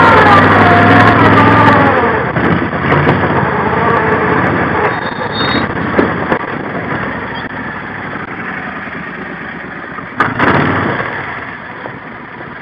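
A vehicle engine running, loud at first and then fading steadily as it moves away, with a short louder burst about ten seconds in.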